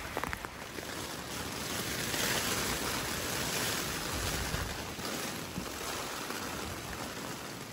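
Heavy rain falling steadily, a continuous hiss that swells a little a couple of seconds in and then eases.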